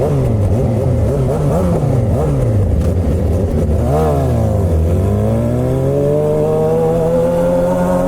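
Straight-piped Suzuki GSX-R600 (K7) inline-four with no catalytic converter, heard from the rider's position while riding: the engine note rises and falls quickly several times in the first few seconds, peaks about four seconds in, drops, then climbs steadily and holds.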